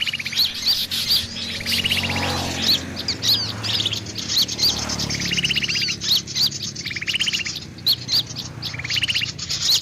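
Sooty-headed bulbul (kutilang) calling over and over: quick high whistled notes alternating with short buzzy rattles, repeating about every couple of seconds.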